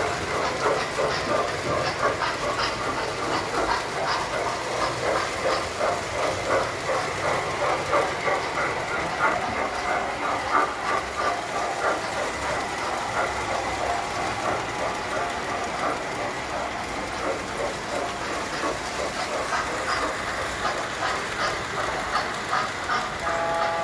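Tinplate model trains running on metal track: a dense, steady clatter of wheels clicking over the rails, with a thin steady whine from the motors.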